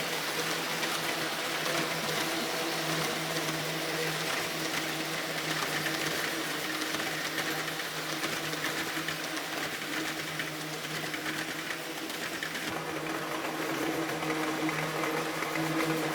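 Motorized 1/45 scale OJ gauge DD51 diesel locomotive models running under load, pulling a heavy brass train. The motors and gearing make a steady whine and whir.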